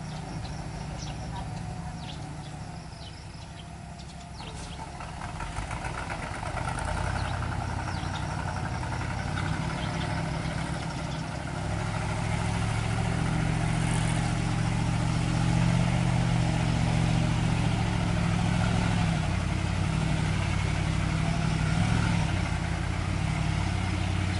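Diesel engines of heavy tronton trucks labouring in a low, steady drone, getting louder about five seconds in and louder again about halfway through as the trucks draw closer.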